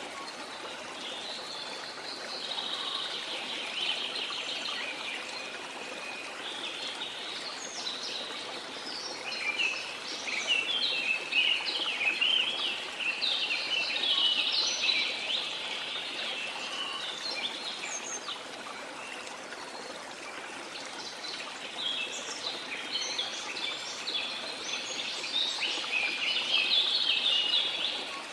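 Small birds chirping and twittering in quick runs, busiest near the middle and toward the end, over a steady wash of sea water.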